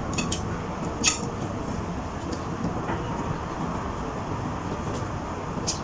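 Steady rumbling background noise, with a few light clicks.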